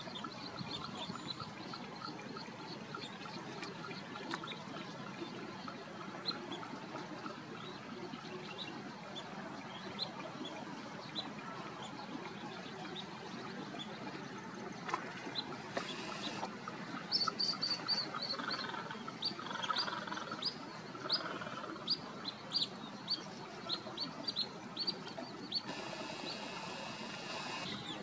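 Small birds chirping over a steady outdoor hiss, with short, high, repeated chirps that grow thicker and louder past the middle. Two brief stretches of hiss stand out, one around the middle and one near the end.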